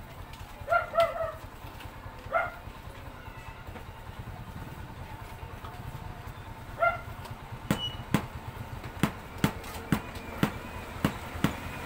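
A few short bird calls, then from about two-thirds in a run of sharp taps, about two a second, over a steady low rumble.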